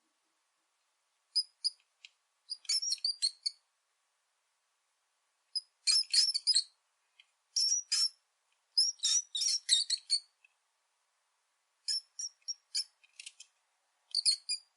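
Rat squeaking: short runs of rapid, very high-pitched squeaks, about seven clusters with silent pauses between them.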